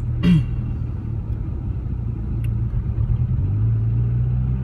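Rover 45's engine running at low revs under load, a steady low hum whose note shifts about three and a half seconds in as the revs change. The car is dropping a cylinder.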